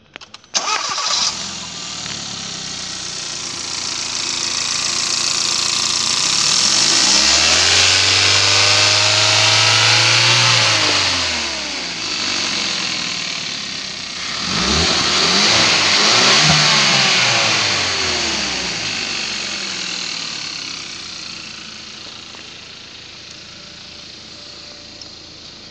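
Hyundai i30's 1.6-litre four-cylinder engine starting up and idling, then revved up and let back down twice, the second rev shorter, before settling back to a steady idle. It runs evenly throughout, an engine that tested good.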